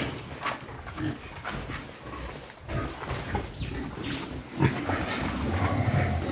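Pigs grunting in a pen: a string of irregular low grunts, with a louder one about two-thirds of the way through.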